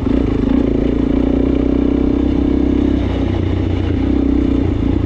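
Suzuki DR-Z400S single-cylinder four-stroke dirt bike engine running steadily under way on a trail ride.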